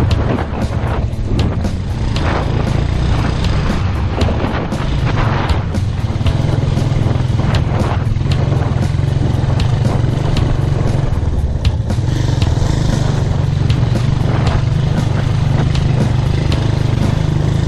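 Motorcycle engine running steadily while riding along a rough unpaved track, with frequent short knocks and rattles from the bumpy ground.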